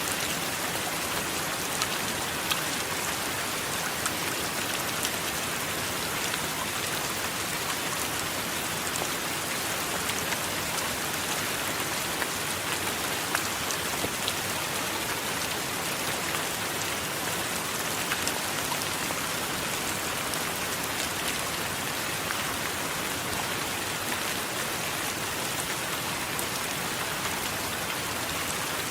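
Steady heavy rain falling, an even hiss dotted with the patter of individual drops.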